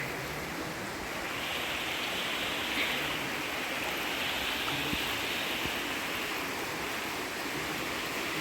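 Steady rush of falling water, swelling and easing slightly every second or two.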